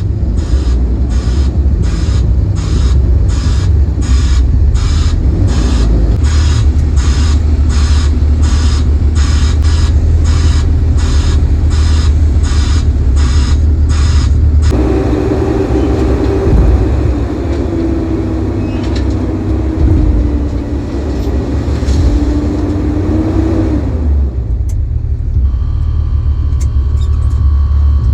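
CAT 312 hydraulic excavator's diesel engine running under load with a steady low rumble. For about the first half a sharp pulse repeats about one and a half times a second. Then a wavering hydraulic whine rises and falls for several seconds as the machine works.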